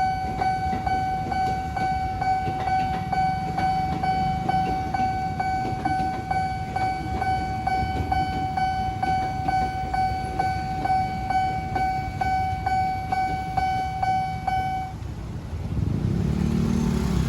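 Electronic level-crossing alarm bell of a Nippon Signal crossing ringing in a steady rhythm, about three strikes a second, over a low rumble of traffic. The bell stops near the end, and engine noise from road vehicles rises.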